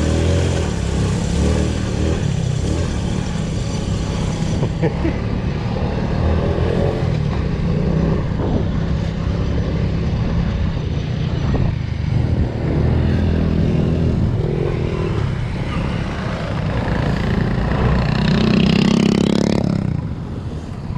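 Motorcycle engine running as it is ridden off-road, with the revs rising briefly near the end.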